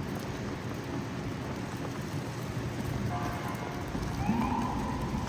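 Steady city street noise during a snowstorm: an even rushing hiss over a low traffic rumble, with a brief pitched sound that rises near the end.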